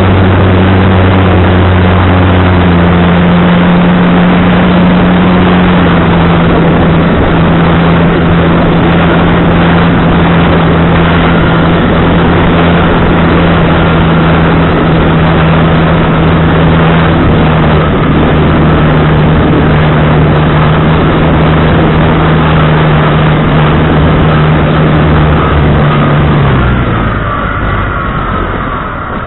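Radio-controlled model plane's motor and propeller running at a steady pitch under a loud rush of wind noise. Near the end the tone drops and stops as the throttle comes off.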